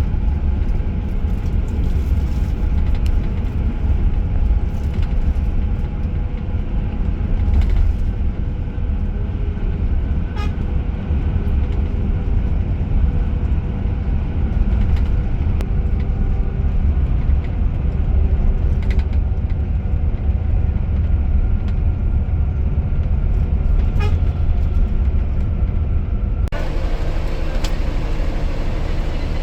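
Steady low rumble of a Scania K410IB coach on the road, engine drone and road noise heard from the passenger cabin, with a few light clicks. Near the end a brighter hiss joins in.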